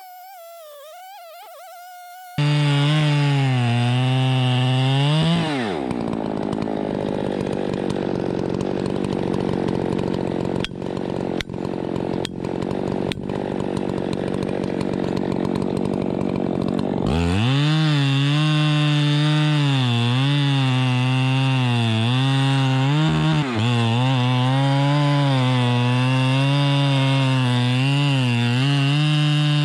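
Chainsaw cutting wood. It comes in loud a couple of seconds in, and from about six seconds to seventeen seconds its note sinks into a rough, noisy cut through wood with a few clicks. After that it runs on with a wavering engine note.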